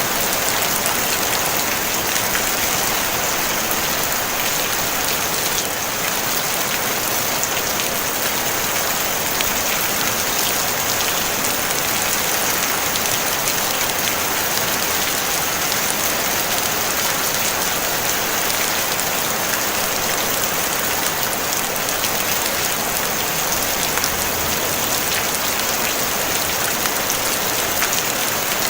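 Steady rain on a tin roof: an even hiss made of countless fine drop ticks, holding constant throughout.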